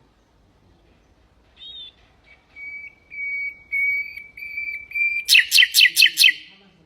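Nightingale singing. A short note comes first, then a row of plain whistled notes on one pitch that grow louder, and the phrase ends in a fast run of about six sharp, falling notes.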